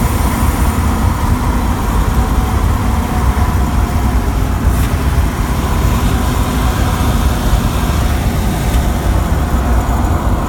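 Inside the cab of a 1993 Jeep Wrangler YJ under way: steady low road and drivetrain rumble. The drivetrain has a light, speed-dependent tick that the owner believes comes from the front of the AX-15 transmission, by the flywheel, and suspects could be the synchros.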